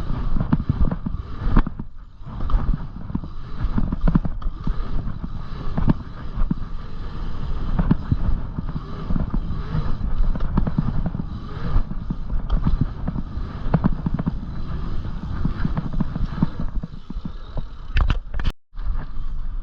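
Dirt jump bicycle being ridden over rough ground: a low rumble with many quick knocks and clatters from the tyres, chain and frame. The sound cuts out briefly near the end.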